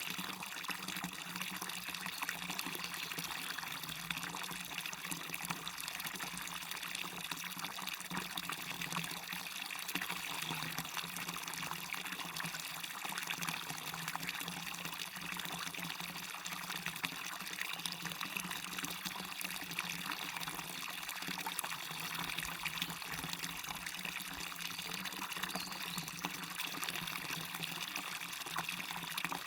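Water running over a waterfall and down a stream: a steady, even rushing and splashing that does not change.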